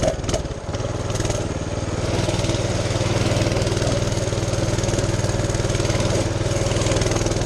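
Mini bike's small single-cylinder engine running steadily under way, its governor removed. There is a short dip and a few knocks in the first second, then an even note.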